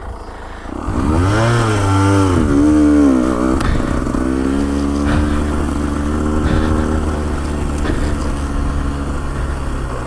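Motorcycle engine revving up and down in pitch about a second in, then running at a steady pitch while riding.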